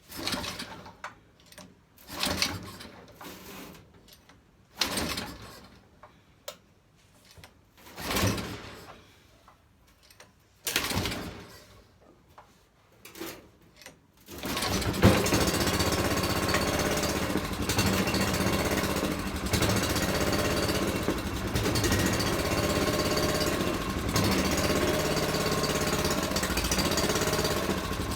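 Primed Tecumseh 6.5 hp single-cylinder small engine being pull-started: several separate cranking pulls that turn it over without it catching, then about fourteen seconds in it fires and keeps running, its note wavering up and down every second or two.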